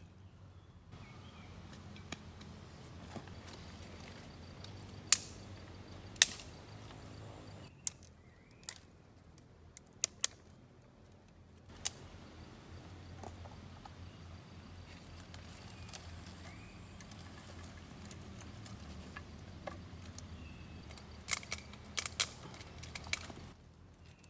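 Wood campfire crackling: scattered sharp snaps and pops over a steady low rumble and a steady high hiss, with a quick cluster of pops near the end.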